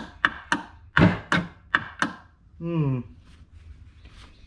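Electric starter of a 1990 Kawasaki 650SX jet ski turning the engine over in jerky knocks, about three a second, with the spark plugs out. The engine won't spin freely because the jet pump impeller is frozen. Near the end the starter gives a brief whine falling in pitch and stops.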